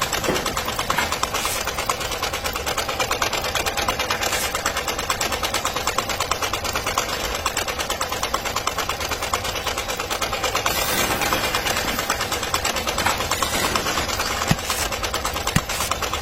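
Small motor of a DIY mini tractor running steadily with a rapid, even clatter.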